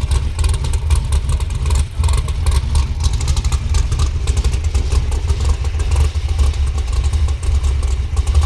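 A vehicle engine running steadily under a heavy low rumble, with a fast clattering texture on top.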